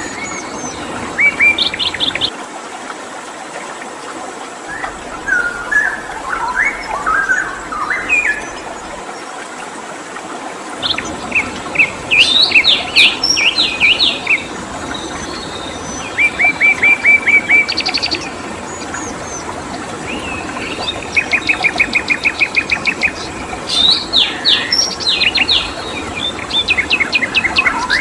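Several songbirds chirping and singing over a steady rush of flowing stream water. The calls are scattered short chirps and downslurred notes at first, then from about twelve seconds in become busier, with fast, even rattling trills of repeated notes.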